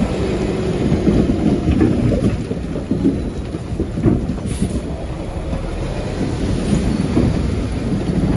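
Bulldozer's diesel engine rumbling under load, with irregular clanks and rattles of its tracks and the stone it pushes.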